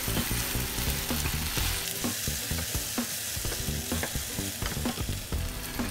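Chicken pieces, onion and garlic sizzling in a nonstick frying pan as a wooden spatula stirs them, with a steady hiss and a few light scrapes and taps of the spatula on the pan.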